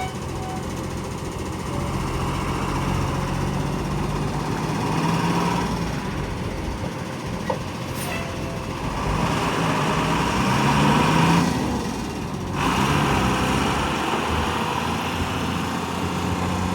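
Sterling L7500 medium-duty truck's diesel engine running, its pitch rising and falling a few times as the revs change, loudest about eleven seconds in.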